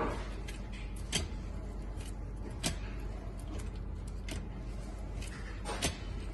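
A steady low hum with four sharp clicks or knocks scattered through it.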